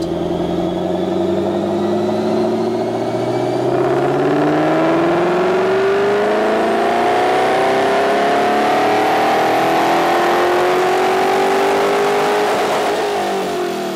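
Ford Shelby GT500 Mustang's supercharged V8, fitted with a BBK twin 65 mm throttle body, making a full-throttle pull on a chassis dyno. The revs climb steadily for about twelve seconds, then drop away near the end as the run finishes.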